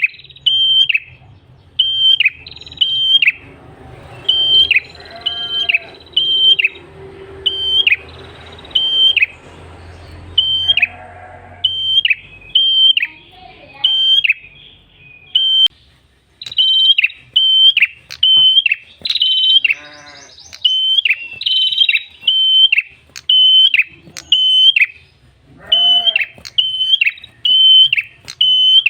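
Tailorbird (prenjak kepala merah) singing in its rapid 'gacor' style: a long run of sharp, high chirps repeated about twice a second, with a few fainter, lower calls in the background.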